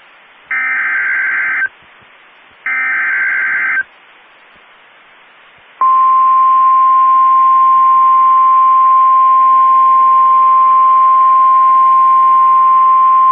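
NOAA Weather Radio emergency alert from a radio receiver: two short buzzing SAME header data bursts, each about a second long, with faint hiss between them. About six seconds in, the loud, steady single-pitch Warning Alarm Tone begins and holds. It signals that a warning is about to be read.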